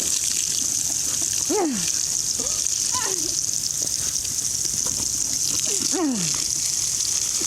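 Garden hose spraying water in a steady hiss. Three short cries that fall in pitch come over it, about one and a half, three and six seconds in.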